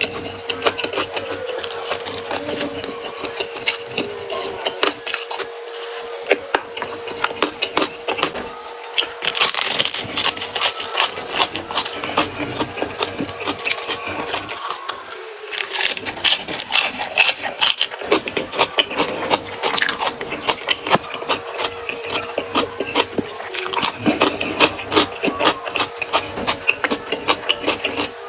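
Close-miked eating: a person chewing and crunching raw vegetables with rice, many crisp, irregular crunches and wet mouth clicks. A steady hum runs underneath.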